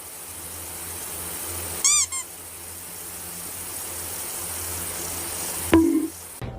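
A cat gives one short, high meow about two seconds in, followed at once by a brief chirp, over a steady background hiss. Near the end comes a sharp click and a short low sound.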